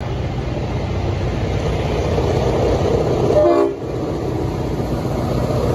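Diesel freight locomotives approaching while accelerating, a steady low engine rumble, with a short horn blast about three and a half seconds in that cuts off sharply.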